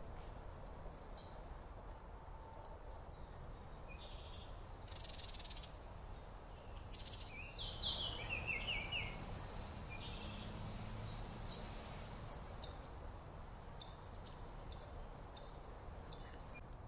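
Backyard birds chirping with scattered short calls, and a louder quick run of falling chirps about halfway through, over a steady low background rumble.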